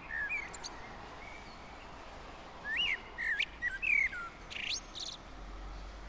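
A songbird singing outdoors: short whistled notes that slide up and down. There are a couple of notes at the start and a quick run of several from about three seconds in, ending with a higher rising note.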